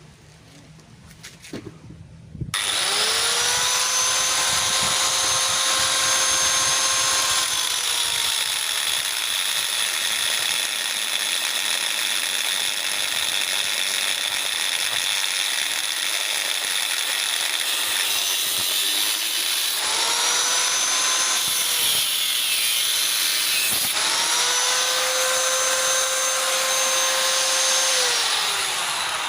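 Electric angle grinder cutting into the steel shell of a scrap refrigerator compressor. It starts about two and a half seconds in, its steady whine sagging while it bites into the metal and returning when it runs freer, then winds down near the end.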